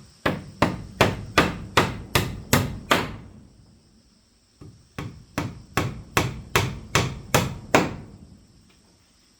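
Hammering: two runs of about eight evenly spaced hard strikes, a little under three a second, with a pause of about a second and a half between the runs.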